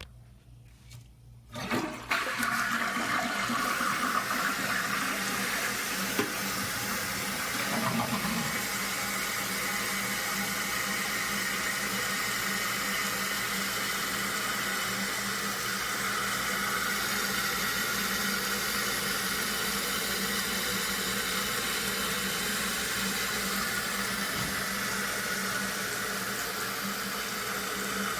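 2001 Eljer Savoy toilet flushed with its tank lid off. The flush starts suddenly a little under two seconds in, then water runs steadily as the open tank refills.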